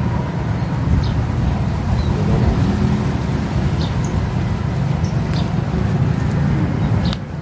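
Steady low rumbling noise with no clear pitch, holding an even level throughout.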